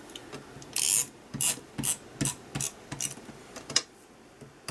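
Rhythmic rasping, ratcheting strokes of a hand tool being worked, about two or three strokes a second, as in building or assembly work.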